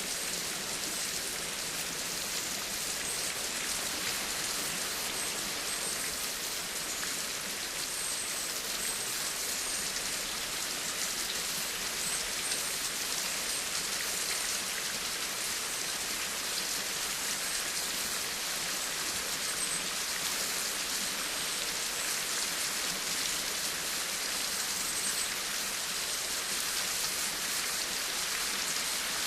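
Steady rain falling on a surface, an even hiss of many drops that holds level throughout.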